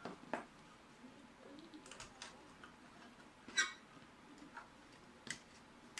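Scattered light clicks and taps of the parts of a PC ATX power supply being handled, with one sharper click about three and a half seconds in.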